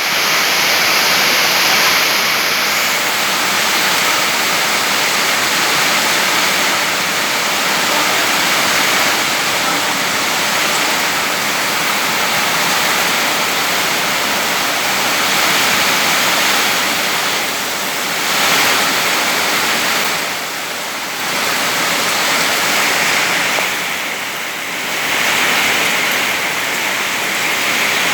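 Heavy rain driven by strong wind: a steady rushing hiss that eases briefly three times in the second half.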